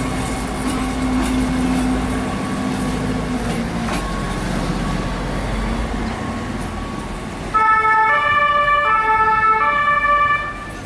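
GTW 2/6 diesel multiple unit running and pulling away, a steady engine hum fading with the wheel noise. Near the end comes a loud two-tone signal that switches between a higher and a lower pitch four times over about three seconds, then cuts off suddenly.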